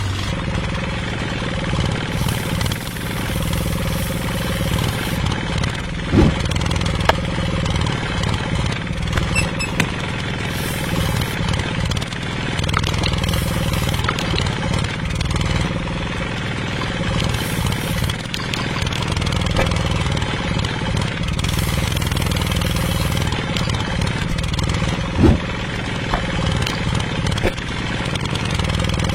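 An engine running steadily with a low rumble, with two short knocks, one about six seconds in and one near the end.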